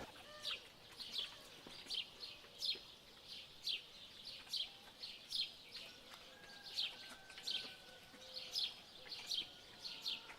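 Bird chirping: a steady run of short, high chirps, each sweeping downward, about one or two a second.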